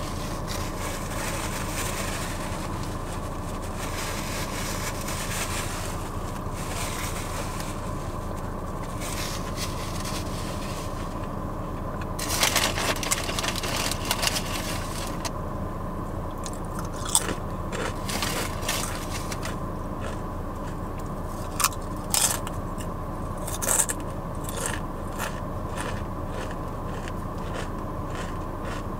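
Close-up chewing of a Subway sandwich, with a stretch of louder crunching about halfway through and a few short sharp crunches after it, over a steady car-cabin hum.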